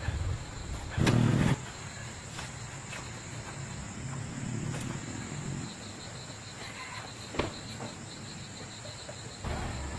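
A steady high-pitched insect-like chirr with scattered work noises: a loud rough noise about a second in, lasting half a second, and a sharp click about seven seconds in.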